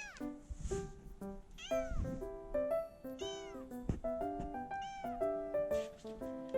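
A cat meowing four times, about every one and a half seconds, each call rising and then falling in pitch, over light background music.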